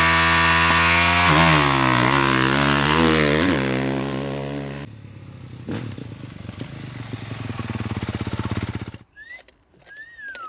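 Motocross dirt bike engine running at high revs, with a couple of quick dips and rises in pitch. It then gives way to a quieter, fast rattling engine note that cuts off about nine seconds in. A few short chirps follow near the end.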